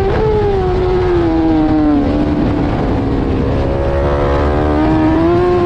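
BMW S1000RR superbike's inline-four engine at racing speed: revs fall for about two seconds as it brakes hard and shifts down through the gears, then climb steadily as the throttle opens through the corner.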